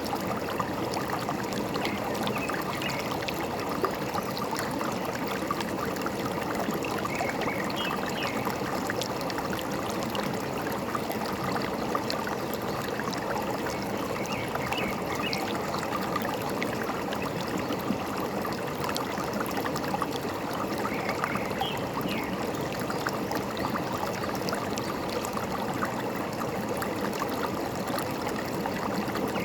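Forest stream trickling and gurgling steadily, with faint short bird chirps every several seconds.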